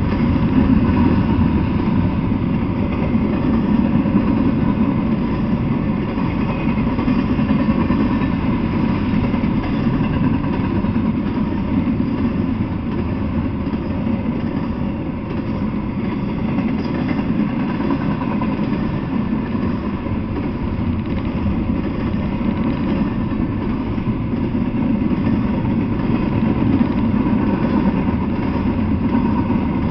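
Double-stack intermodal freight cars rolling past: the steady rumble of steel wheels on the rails, with no pauses or changes.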